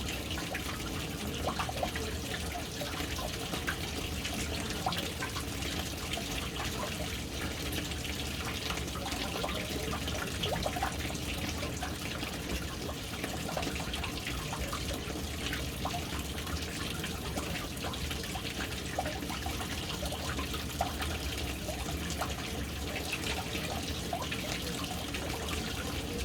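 Water falling steadily into a household water tank, a continuous splashing trickle with many small drips.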